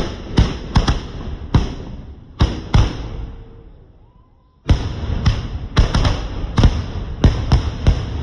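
Multi-shot aerial firework cake firing a rapid string of loud bangs, a few a second, that dies away about three seconds in; just before five seconds in a second, denser volley of bangs begins.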